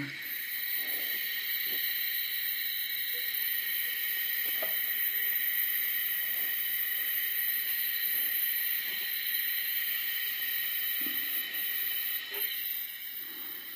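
Water leaking inside a toilet tank, hissing steadily through the green valve assembly, with a few faint ticks. It is a constant leak that stops once the toilet is flushed.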